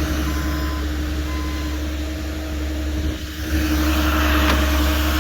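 A large work-site engine running steadily, with a reversing alarm beeping about once a second for the first two seconds. The engine sound dips briefly about three seconds in, then comes back louder.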